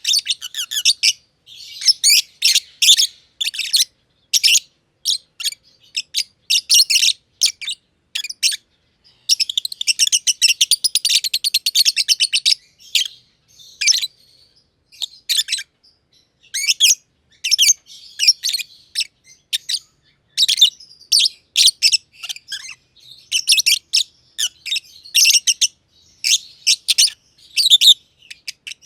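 Masked lovebirds (personata) chirping: sharp high-pitched chirps in quick bursts with short pauses, rising to a dense run of rapid chattering about nine seconds in.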